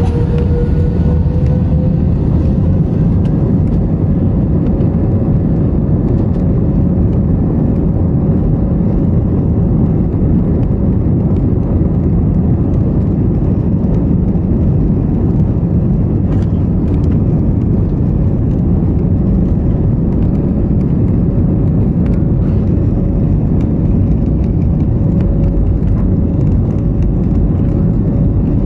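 Airliner engines running at high power for takeoff: a loud, steady low rumble with a single tone that rises slightly over the first few seconds as the engines spool up, then holds steady.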